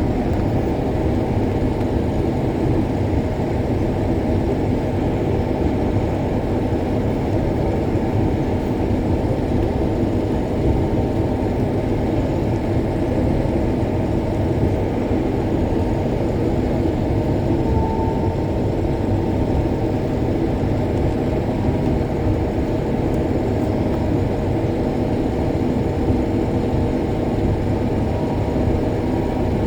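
Combine harvester running steadily while harvesting soybeans: a constant low engine and machinery drone with several steady hum tones, heard from the cab.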